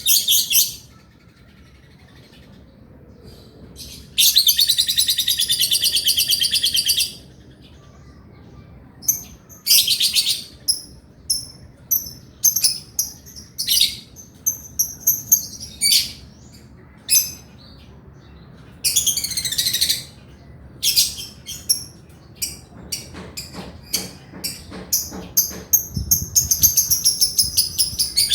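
Male lovebird singing: long, rapid, shrill chattering trills (the 'ngekek' of a prolific singer), the longest lasting about three seconds, alternating with bursts of short sharp chirps.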